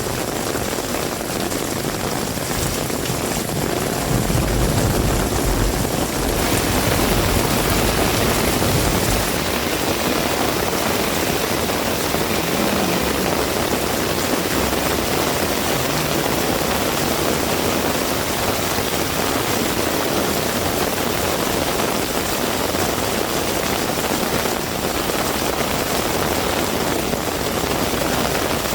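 Heavy rain falling in a steady, dense hiss that grows louder about six seconds in. A low rumble joins it for about five seconds from about four seconds in.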